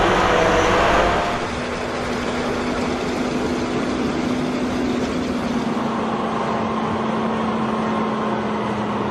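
Large tractor's six-cylinder diesel engine running steadily with a constant hum. About a second in, the sound changes abruptly from a louder, busier passage to the steadier running.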